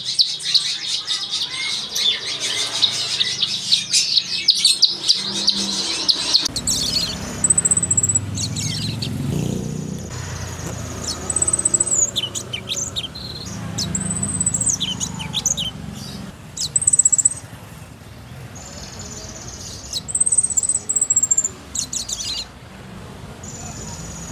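Caged songbirds singing. For the first six seconds or so there is fast, dense twittering, then repeated high whistled phrases with short pauses between them.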